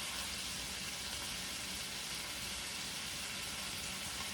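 Tri-tip steaks searing in butter in a hot stainless steel pan: a steady sizzle.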